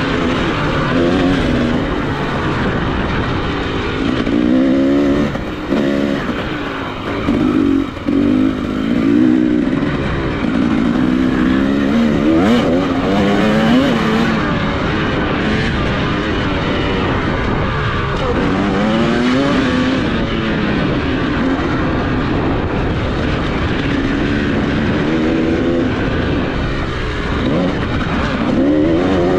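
Off-road motorcycle engine ridden hard, the revs climbing and dropping again and again under throttle.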